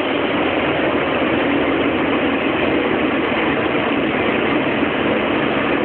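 A vehicle engine running steadily, heard as a loud, even rushing noise through a phone's microphone. It is recorded to check whether an earlier abnormal noise has gone.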